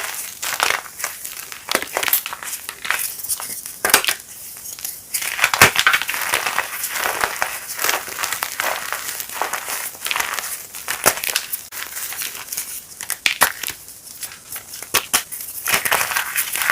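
Chunks of reformed gym chalk being crushed and crumbled: a dense, irregular run of crisp crunches and crackles.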